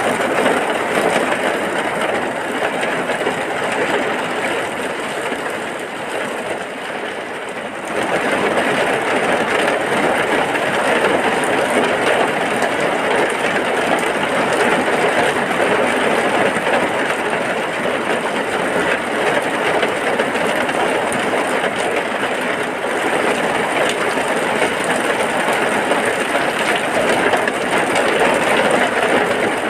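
Heavy rain falling steadily as a dense, even hiss. It eases slightly about six seconds in and comes back abruptly at about eight seconds.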